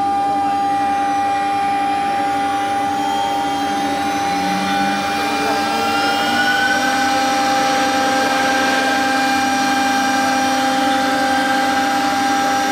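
CNC router working fibre board: its 3.5 kW air-cooled spindle runs with a steady high whine over the cutting noise. Several other tones rise in pitch a few seconds in as the drive motors change speed.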